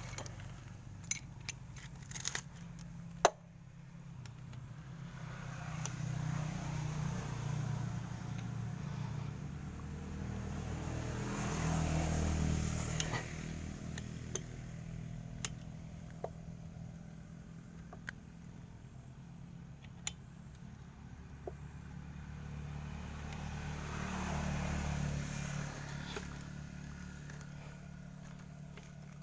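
Single-cylinder 'dompeng' diesel engine running steadily after being flooded, swelling louder twice, about twelve seconds in and again near the end. A few sharp clicks or knocks sound over it, the loudest about three seconds in.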